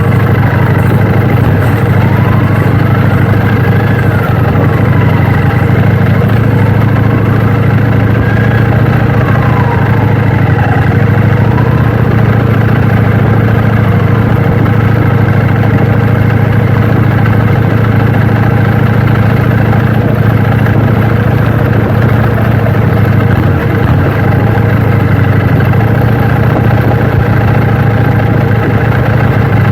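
KTM Duke 790 parallel-twin engine running at a steady, unchanging pitch, a constant loud low drone. A fainter tone rises and falls a few times over it in the first dozen seconds.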